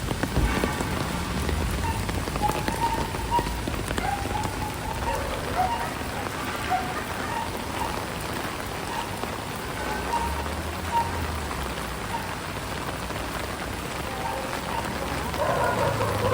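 Heavy rain falling steadily on hard surfaces, a dense, even patter.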